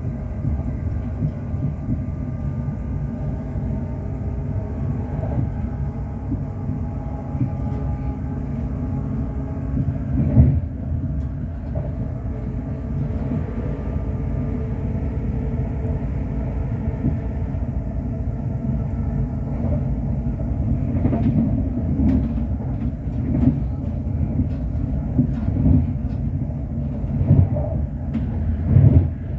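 Inside the passenger saloon of a Class 350 Desiro electric multiple unit on the move: a steady rumble from the wheels and track with faint motor tones. A single knock about ten seconds in, and a run of knocks and jolts near the end.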